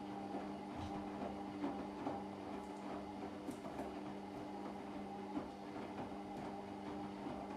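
Washing machine running through a wash cycle: a steady motor hum with faint, irregular clicks and knocks from the turning drum.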